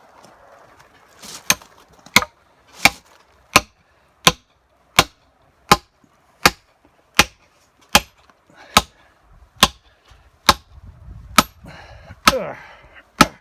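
A hammer striking a hand-forged iron spike, driving it into a pre-drilled wooden log bench. About sixteen sharp blows, roughly one every 0.7 seconds, each with a short metallic ring, beginning about a second and a half in.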